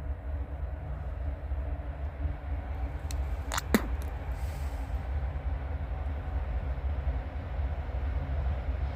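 Freight train's diesel locomotives running with a steady low rumble as the train comes to a stop. A little under four seconds in comes a brief high squeal that drops sharply in pitch.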